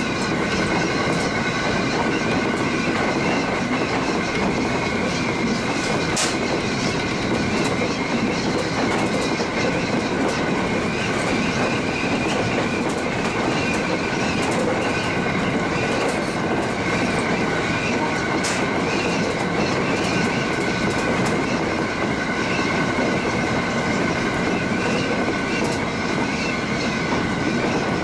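Local train running along the line between stations: a steady rumble of wheels on rail with a held high whine and a few sharp clicks.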